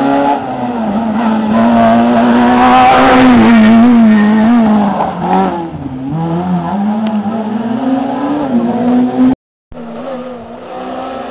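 Rally car engine revving hard on a twisty climb, its pitch rising and falling with throttle and gear changes; loudest a few seconds in. The sound drops out for a moment about nine seconds in, then an engine note carries on.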